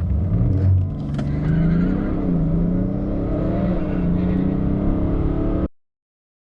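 BMW 3 Series (F30) diesel engine accelerating hard, its pitch climbing and then dropping several times as the gearbox shifts up through the gears. It cuts off abruptly near the end.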